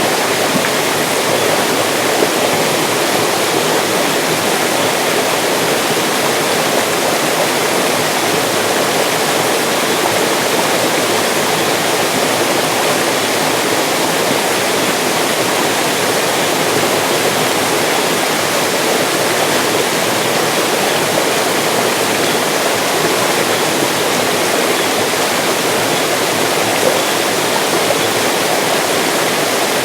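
Mountain stream rushing steadily over rocks, an even, unbroken sound of running water.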